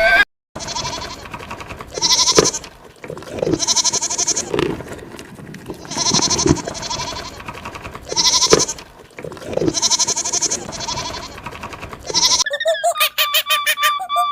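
An animal's short, rough, bleating calls, repeated about every two seconds.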